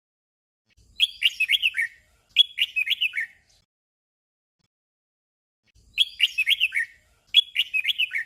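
Red-whiskered bulbul singing a short warbled phrase twice in quick succession, then the same pair again about four seconds later.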